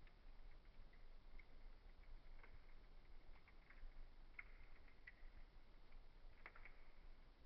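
Wood fire in a fireplace crackling faintly: scattered small pops and snaps over a soft hiss, with a louder cluster of crackles about six and a half seconds in.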